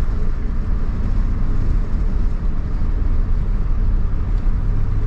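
Steady engine and road rumble heard inside the cab of a moving pickup truck, a continuous low drone with no sudden events.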